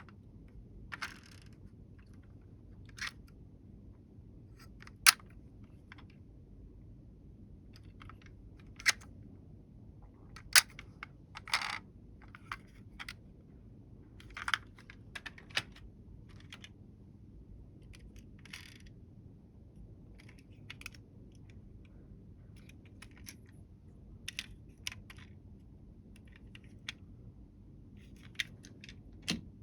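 Irregular light clicks and taps of small hard toy vehicles being handled and set down, one at a time with pauses between, a couple of them sharper than the rest.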